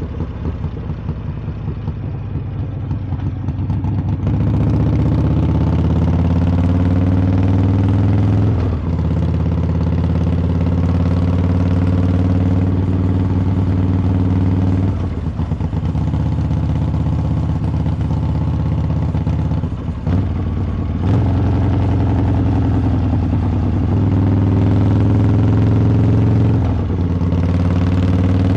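Harley-Davidson V-twin engine's exhaust under way. It starts with a lower, rougher run for the first few seconds, then pulls with its pitch slowly climbing, in stretches broken four times by a short dip, as on gear changes.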